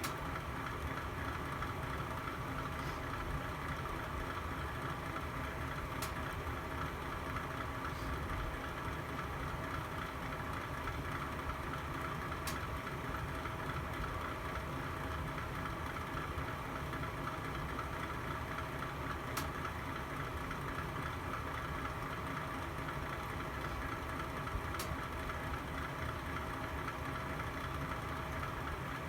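Fire burning in a fireplace: a steady, even rushing noise, with a few sharp crackling pops spaced several seconds apart.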